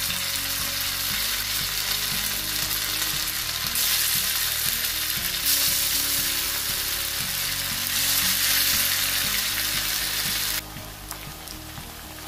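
Marinated chicken pieces deep-frying in hot oil in a pan, giving a steady loud sizzle as the pieces go in. The sizzle drops abruptly to a quieter level near the end.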